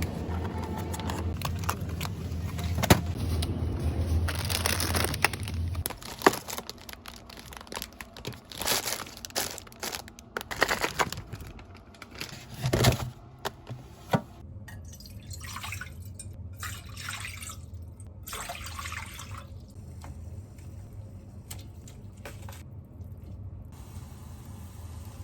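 Water running and splashing, with scattered small knocks and clatter partway through and a series of short swishing pours later on.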